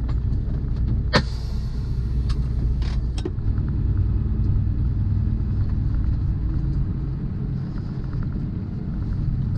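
Steady low rumble of a semi truck's engine and road noise inside the cab while driving, with one sharp click about a second in and a few lighter clicks or rattles soon after.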